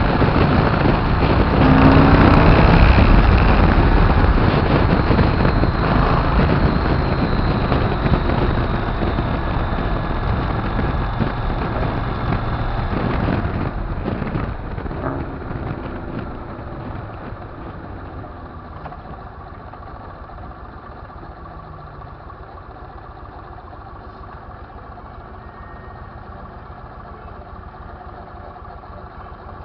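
Motorcycle on the move, engine and wind rushing loudly, then easing off from about halfway to a quieter, steady engine sound.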